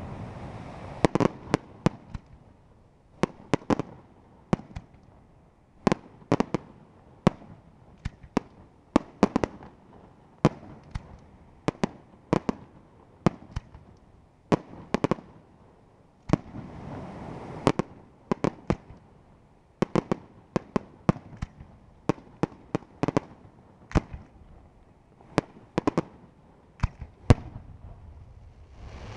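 Raffaele Fireworks aerial shells bursting in a rapid, irregular barrage of sharp bangs, often several a second, over a low rumble.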